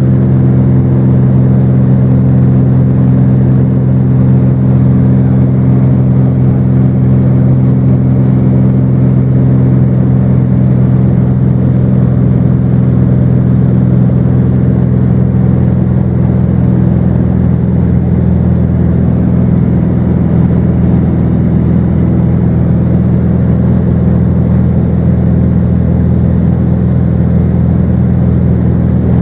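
Cessna 210's six-cylinder piston engine and propeller droning steadily in cruise, heard from inside the cabin as a loud, even hum of several low tones.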